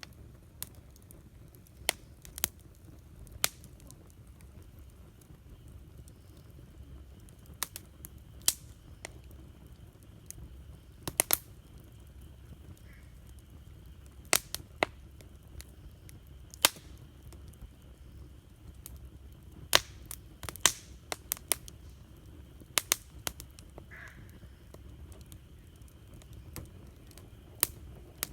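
Wood campfire crackling: irregular sharp pops and snaps, a few much louder than the rest, over a low steady rumble of the burning fire.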